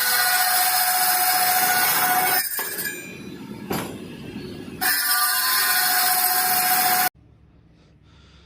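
A machine's harsh grinding or cutting noise with a steady whine, in two long loud stretches with a quieter stretch between, cutting off suddenly near the end.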